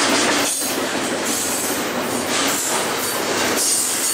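BNSF double-stack intermodal freight cars rolling past at speed, a steady loud rumble and rattle of steel wheels on rail. A high-pitched wheel squeal comes in twice, about two seconds in and again near the end.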